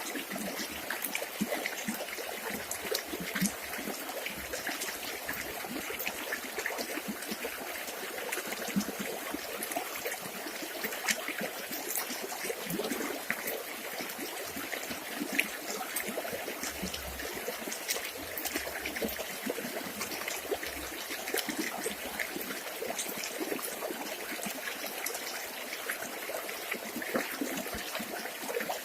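A river flowing and trickling steadily, with many small splashes and drips throughout.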